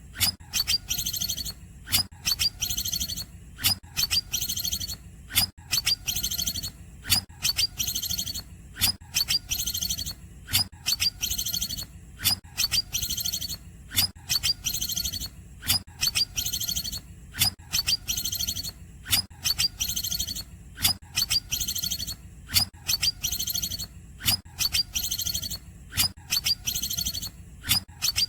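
Cucak ijo (green leafbird) singing its cungkokan-style song: one short phrase repeated about once a second, a sharp opening note followed by a high, fast buzzy trill. A steady low hum runs underneath.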